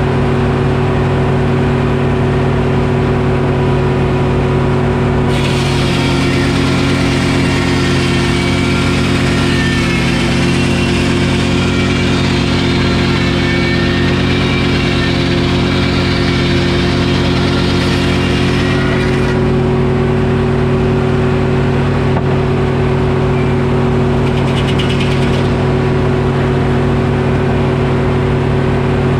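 Detroit Diesel engine running steadily, driving a Frick sawmill. From about five seconds in until about nineteen seconds, the saw blade cuts through an oak log and adds a loud hiss over the engine note, which dips slightly under the load.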